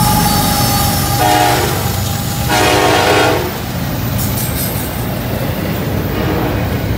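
Freight train passing close by: the locomotives' horn sounds two blasts, one about a second in and a louder, shorter one just after. Meanwhile double-stack container cars rumble and clatter past.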